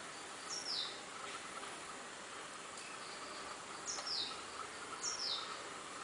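A bird gives three short, high calls, each a brief note followed by a quick downward slide. The first comes about half a second in and the other two come near the end, over a faint, steady background of insects.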